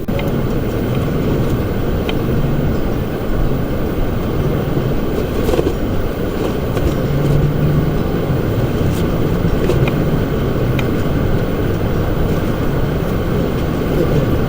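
Strong wind buffeting the microphone: a loud, steady low rumble, with a few faint knocks.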